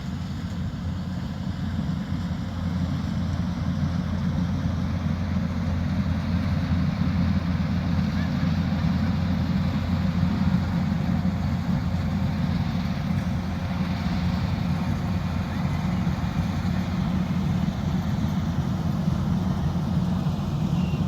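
Kubota DC-108X combine harvester running steadily in a rice field, a continuous low engine drone that grows slightly louder in the first few seconds.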